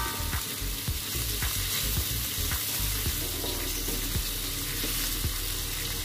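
Chillies, petai beans, tomato and sliced shallots sizzling steadily in hot oil in a metal wok, being sautéed until wilted. A spatula stirs them, scraping and tapping the wok now and then.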